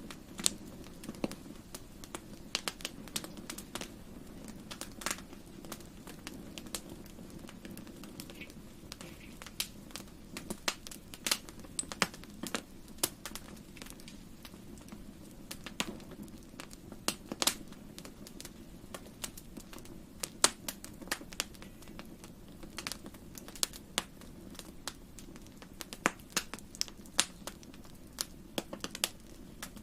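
Wood fire crackling in a fireplace: irregular sharp pops and snaps over a steady low background of the burning fire.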